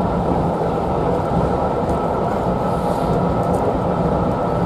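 Steady rumble and rush of a passenger train coach running at speed, heard from inside the carriage.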